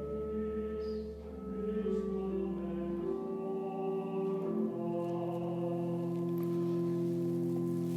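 Slow church organ music: sustained, steady chords that change a few times, with deep pedal notes in the first few seconds and a final chord held from about halfway through.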